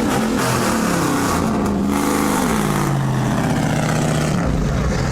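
Large diesel 4x4 truck engine revving, its pitch rising and falling several times before settling near the end.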